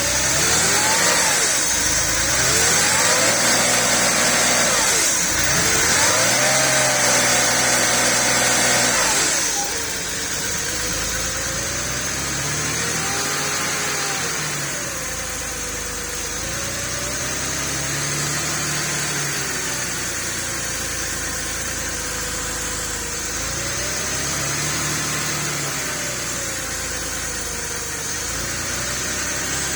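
Porsche 3.2 Carrera's air-cooled flat-six, just started from cold, revved up and down a few times, then dropping to idle about ten seconds in. The idle speed rises and falls slowly, the up-and-down hunting of a cold start before it warms up, despite poor leak-down figures on cylinder 1.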